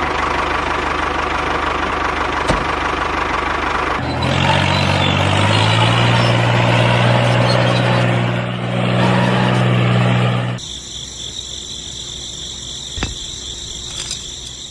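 Motor of a DIY mini tractor running steadily, heard in three cut-together stretches, with a strong low hum in the middle stretch.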